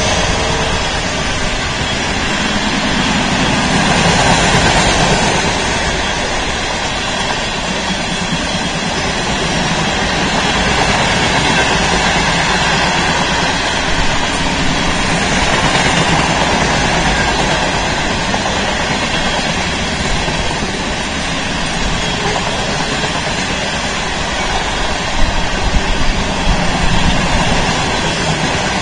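Freight train of covered hopper cars rolling past, a steady loud noise of steel wheels on the rails with slow swells, and a few sharper clicks near the end.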